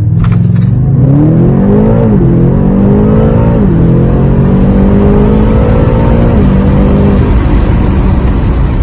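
BMW M8 Competition's twin-turbo V8 being revved: the pitch climbs and drops back twice in the first few seconds, then holds at raised revs before easing off near the end.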